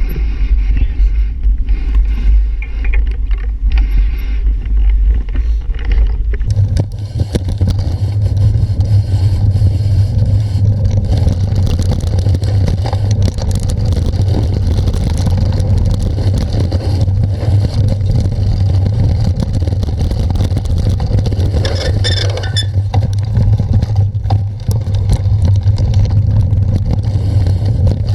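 Wind rumble and rattling from a moving bicycle ride picked up on the camera's microphone, loud and continuous; the low rumble changes about six and a half seconds in.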